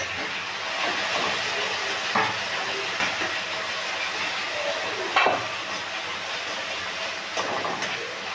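Spiced onion-tomato masala sizzling steadily in oil in a kadhai, while a metal spatula stirs it and scrapes against the pan a few times.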